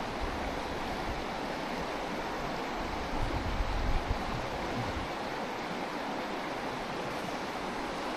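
Mountain stream rushing steadily over rocks, with wind buffeting the microphone in low rumbles about three to four seconds in.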